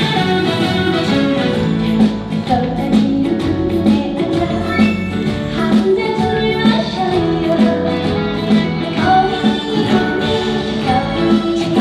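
Live band music playing a song's opening, loud and steady with a regular beat.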